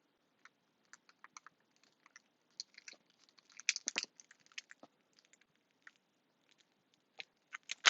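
Crafting tape being handled: scattered small clicks and crinkles, with a denser flurry about four seconds in.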